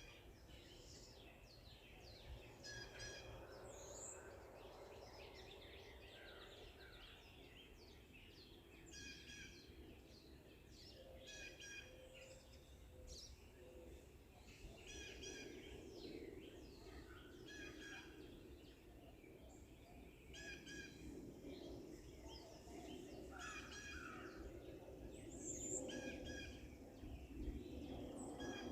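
Several forest birds singing and calling, short chirping phrases repeated every second or two, over a faint steady background hiss.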